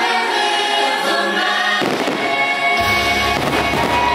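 Choir singing in a fireworks show's music soundtrack, with a sharp firework bang just under two seconds in and the low, noisy sound of fireworks launching and bursting from about three seconds on.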